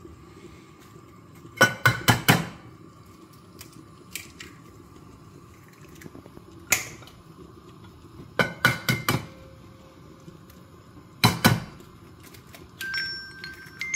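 Sharp knocks and clinks of kitchen dishes and utensils in four short clusters. Near the end, a phone alarm starts up in steady tones that step between pitches.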